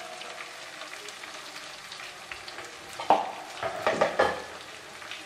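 Stir-fry sizzling in hot oil as it is stirred, with a steady crackle. About three seconds in comes a run of loud clatters, a spatula knocking and scraping against the pan.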